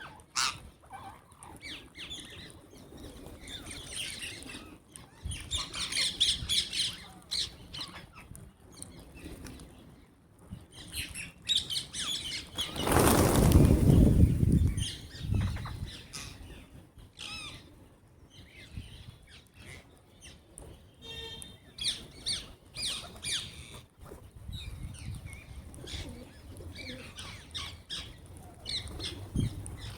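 Parrots flapping their wings, with scattered chirps and light taps, and one loud rushing burst about halfway through.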